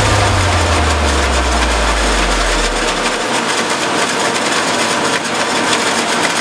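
Farm machinery running at work: a dense, steady engine noise with fine rattling. A low hum underneath stops about three seconds in.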